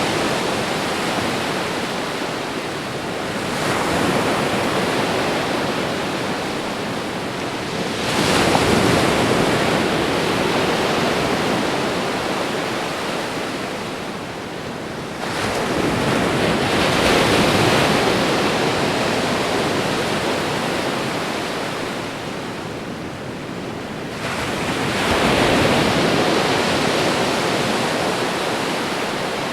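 Ocean waves washing onto a shore in a steady rhythm of surf. Four waves break in turn, each swelling up quickly and then fading slowly as it washes back.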